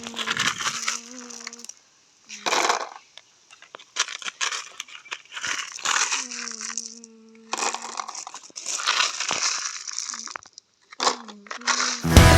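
Mini toy construction vehicle: a small motor hums in short runs of a second or two, with crunching and crinkling in between and over it.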